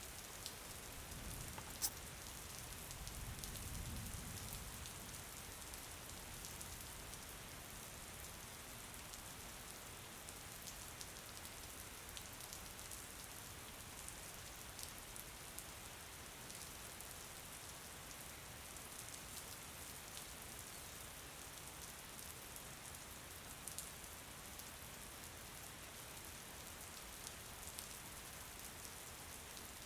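Steady rain falling, a soft hiss dotted with the light ticks of individual drops. A low rumble swells and fades in the first few seconds, and there is one sharp click about two seconds in.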